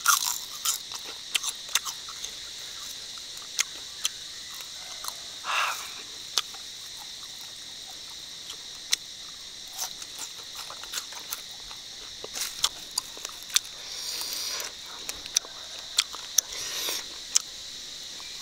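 Close-up crunching and chewing of crispy fried crickets, with sharp crunches scattered throughout. A steady high insect buzz runs underneath.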